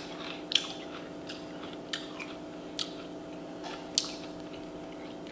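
A person chewing food close to the microphone, with about five short, sharp crunches spread through, over a steady low hum.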